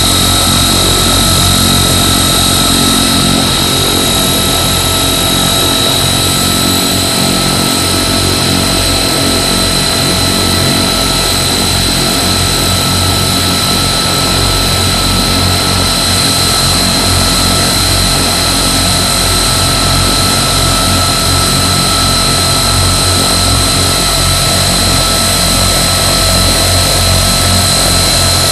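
Two Rolls-Royce Tyne turboprop engines of a Vickers Vanguard airliner running steadily on the ground. A high turbine whine sits over the low drone of the propellers.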